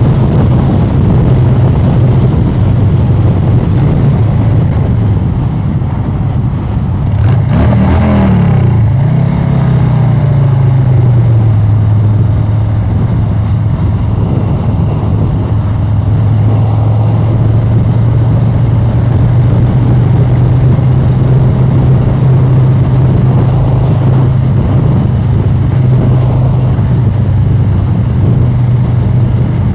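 Harley-Davidson Street Bob 114's Milwaukee-Eight V-twin running through an aftermarket SP Concept exhaust while riding. The engine note rises briefly about seven seconds in, then drops and settles into a steady cruise.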